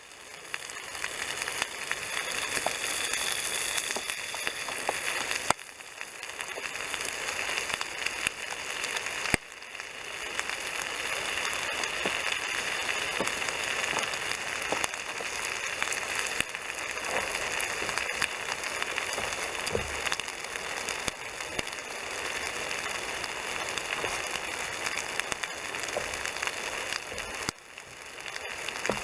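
Bacon and sausages sizzling in a frying pan over a campfire, with many small pops and crackles of spitting fat. The sizzle drops away sharply three times and builds back up each time.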